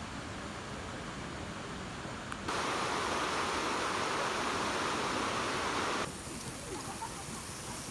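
Rushing water: a steady, even wash of noise. It turns abruptly louder about two and a half seconds in and drops back abruptly about six seconds in.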